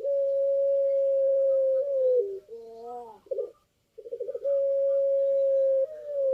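Puter pelung, a Barbary dove kept for its long coo, cooing twice. Each coo opens with a quick rolling stutter and settles into a long, steady held note of nearly two seconds that steps down in pitch at its end. A short rising-and-falling note comes between the two.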